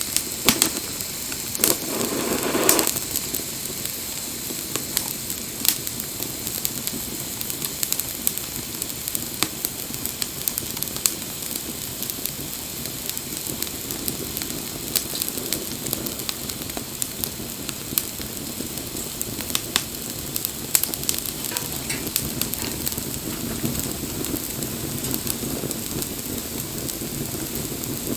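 Wood campfire burning, crackling with frequent sharp pops over a steady hiss, with a louder rush of flame about two seconds in.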